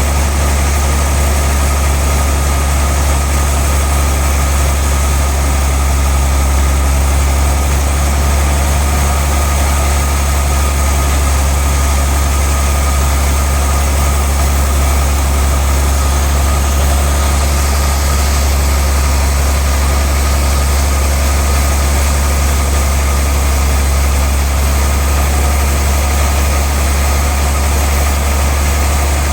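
Large sawmill machinery running steadily: a loud low hum with a steady high whine over it, unchanging throughout.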